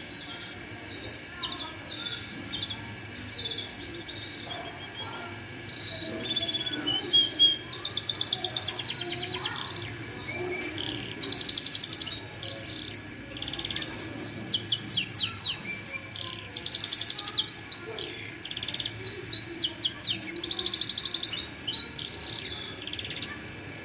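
Domestic canary singing a long varied song: rapid trills of fast repeated notes alternating with short whistled and chirped phrases.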